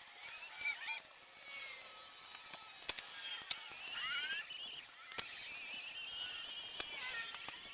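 Scattered sharp metal clinks from hand tools working on a VW engine, with faint high-pitched squeaks that waver and rise in pitch.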